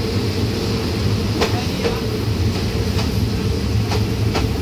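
Passenger train running on the rails, a steady low rumble with a steady tone above it, and about five sharp clicks from the wheels on the track.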